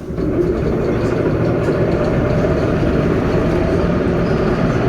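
Metro train car's air compressor starting up suddenly and then running steadily while the train stands at a station.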